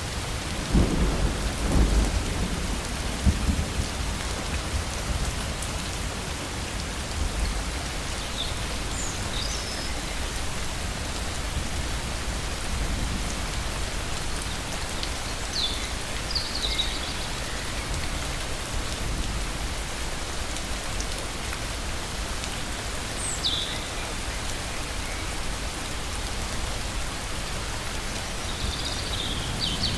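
Steady heavy rain, with a low rumble of thunder in the first few seconds. A few short, high chirps sound here and there over the rain.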